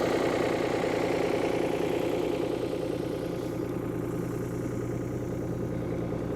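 New Holland tractor's diesel engine running steadily, easing slightly quieter about halfway through.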